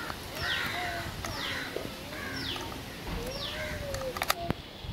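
Birds calling over and over, a short call with a falling note repeated about every half second. About four seconds in, a few sharp clicks.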